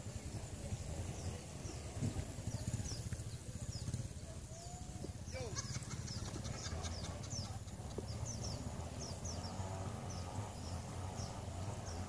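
Birds chirping in many short, quick downward-sliding notes, busier from about halfway in, over a steady low rumble of outdoor ambience.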